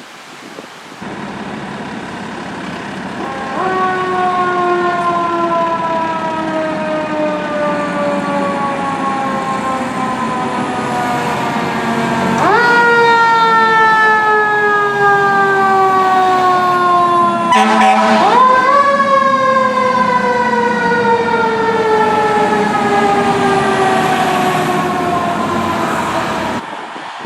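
Fire truck's mechanical siren, wound up three times: each time the pitch jumps up quickly, then slowly falls as the siren winds down. The truck's engine drones underneath, and the sound falls away near the end as the truck passes.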